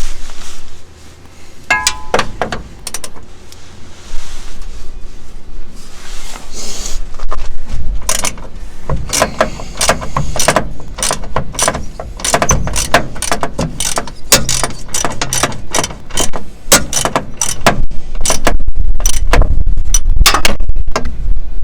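Hand ratchet clicking in quick runs of strokes, with scattered knocks of metal tools at first, during work on a fuel tank's fasteners.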